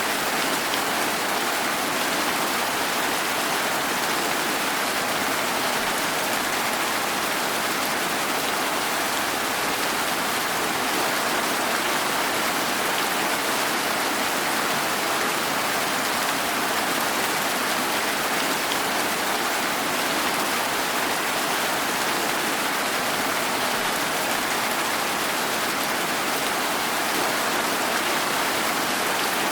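Steady, even rain falling, a constant hiss without gusts or distinct drops.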